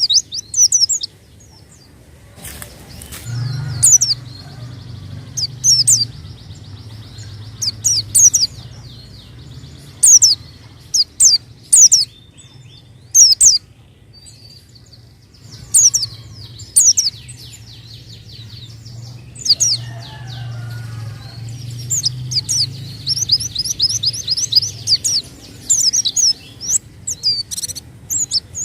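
White-eye (pleci) calling in sharp, high, quickly falling chirps, in short clusters every second or two, with a faster rattling run of chirps late on. A faint steady low hum runs underneath.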